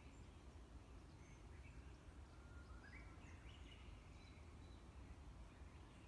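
Faint songbird singing: scattered short chirps and, about halfway through, a quick run of notes stepping upward in pitch, over a low steady rumble.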